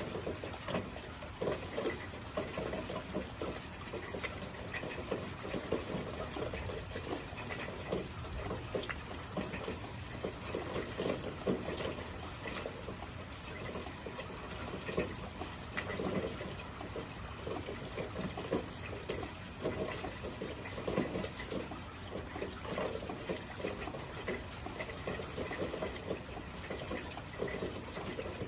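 Steady splashing and trickling of water, with many small irregular splashes over a continuous rushing sound.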